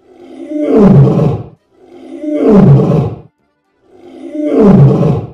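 A lion roaring three times, each roar about a second and a half long, swelling and then falling in pitch.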